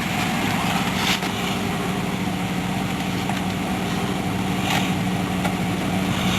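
2005 Ford Taurus engine idling steadily just after a cold start, the car having sat unstarted for a while.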